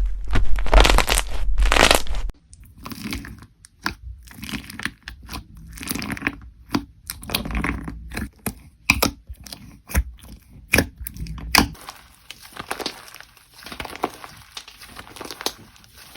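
Slime being squeezed and pressed by hand close to the microphone: crackling, crunching and popping in an irregular run. A dense, louder crinkle cuts off abruptly about two seconds in, giving way to sparser pops and sharp snaps.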